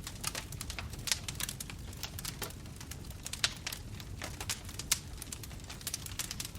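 Bonfire crackling: a steady low rumble of flames with many sharp, irregular pops and snaps, two louder pops about three and a half and five seconds in.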